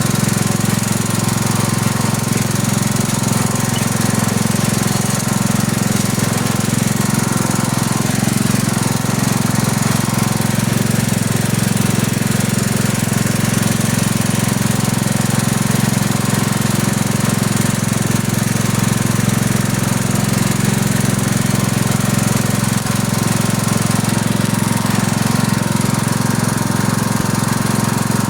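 Riding lawn tractor's small engine running steadily under way, a loud unbroken drone with no change in speed.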